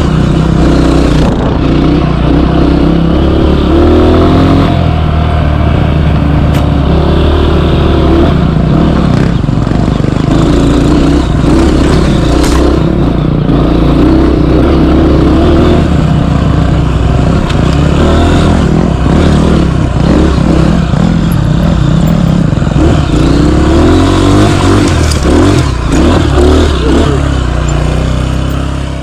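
Dirt bike engine running loud and close under load on a hill climb, its pitch rising and falling again and again as the throttle is worked.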